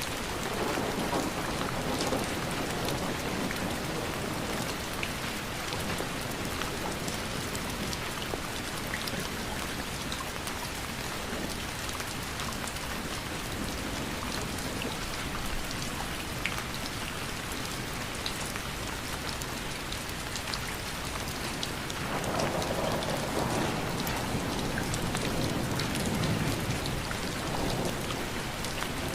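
Steady rain falling, with scattered sharp drop impacts, and a low rumble of distant thunder swelling twice: once at the start and again for several seconds near the end.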